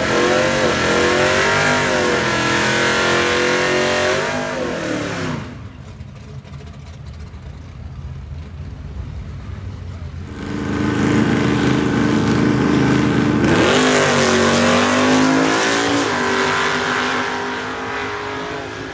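High-powered car engines accelerating hard, the pitch climbing and dropping with each gear change. Two loud runs, with a quieter stretch between them starting about five seconds in.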